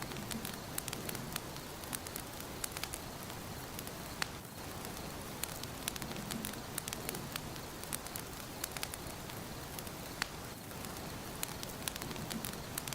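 Fire burning in a fireplace: a steady hiss with frequent sharp crackles and pops at irregular intervals, several a second.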